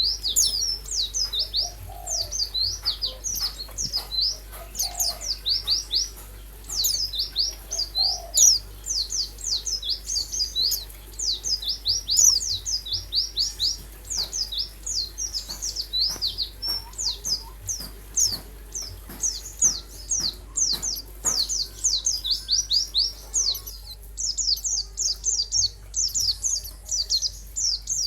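Songbirds singing a dense, unbroken stream of short, high, quick chirps. A lower call repeats about every two seconds in the first eight seconds.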